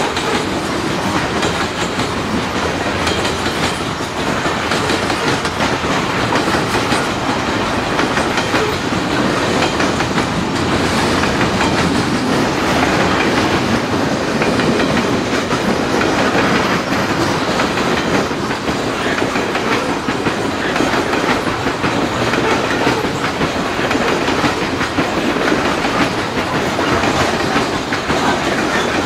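Loaded coal hopper cars of a freight train rolling past steadily with a continuous rumble, the steel wheels clicking rapidly over the rail.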